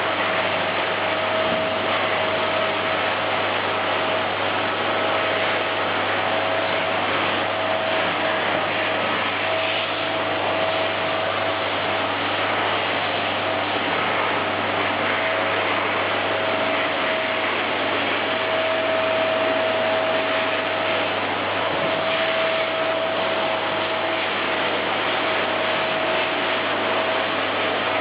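Vacuum cleaner running steadily: a constant rushing noise with a steady whine.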